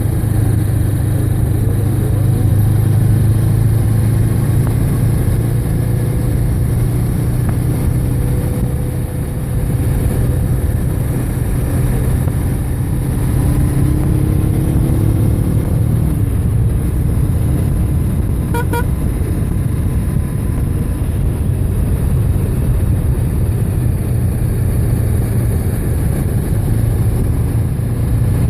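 Motorcycle engine running steadily at road speed, its note drifting slightly up and down, with wind and road noise throughout. A brief double beep sounds about two-thirds of the way in.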